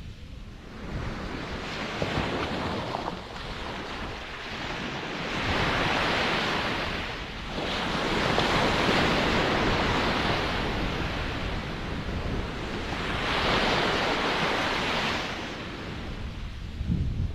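Ocean surf: waves breaking and washing in slow surges that swell and ebb every few seconds, three big washes in a row.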